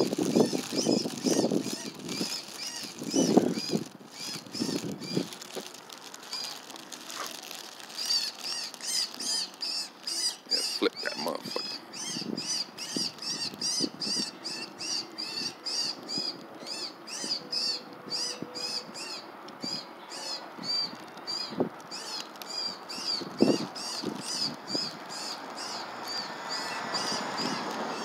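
A bird chirping over and over: short high chirps in an even run of about three a second. A few low rustles come in the first few seconds.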